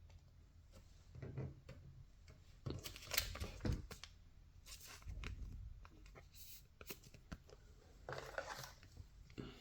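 Faint, scattered rustling and light taps of baseball trading cards and their plastic sleeves being handled, in a few short bursts.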